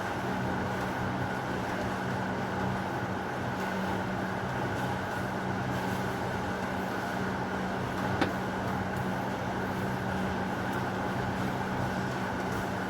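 Steady heavy rain falling, with a constant low hum underneath it and a single sharp click about eight seconds in.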